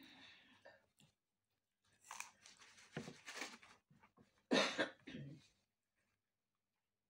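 A man chewing fried boiled potatoes, heard as irregular wet mouth noises close to the microphone, with one louder, sharper burst from the mouth about four and a half seconds in.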